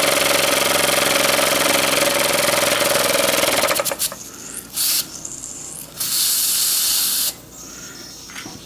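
Small homemade steam engine running fast with a steady whirring beat, stopping suddenly about four seconds in. Then two bursts of steam hissing, a short one and one over a second long.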